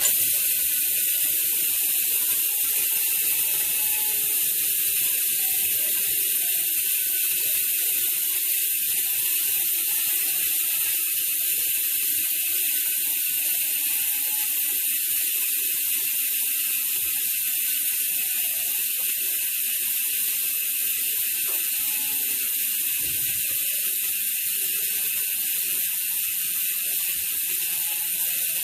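Speedone Soldier bicycle hub's freewheel ratchet buzzing as the wheel spins freely, a fast steady run of pawl clicks that starts suddenly and slowly falls in pitch as the wheel loses speed.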